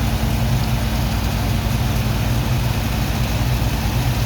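Heavy engine of a sand-unloading dredge pump running steadily at constant speed: a low drone with a fast, even pulse.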